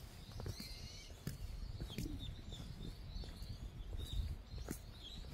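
Short high bird chirps every second or so over a steady low rumble, with scattered light clicks.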